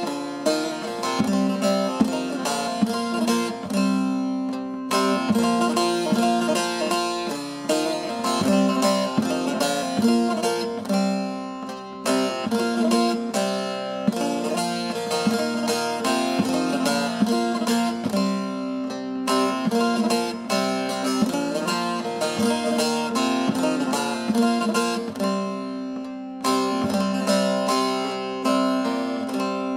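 Instrumental introduction of a Turkish folk song, played on plucked string instruments as a busy run of quick notes.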